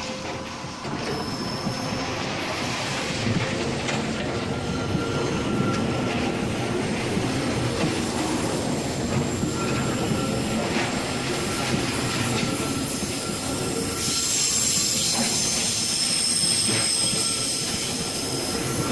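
Taiwan Railway EMU800 electric multiple unit rolling slowly past the platform as it pulls in: a steady wheel rumble with clicks over the rail joints. Thin high-pitched wheel and brake squeals come and go, growing stronger about two-thirds of the way through as the train slows.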